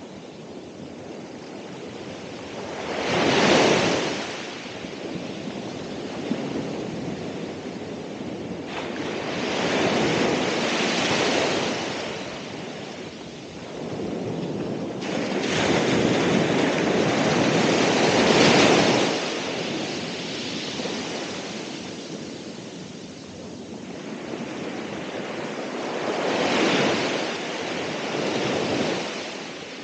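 Ocean waves breaking and washing up the shore, four surges that swell and fade over a few seconds each, over a steady hiss of surf. Some wind noise on the microphone.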